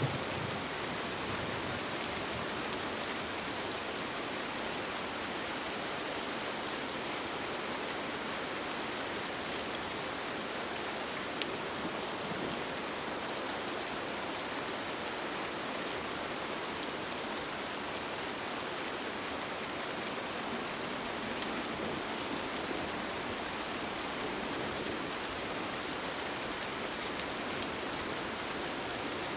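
Steady rain falling on a tent, an even, unbroken hiss of drops with one slightly louder tick about eleven seconds in.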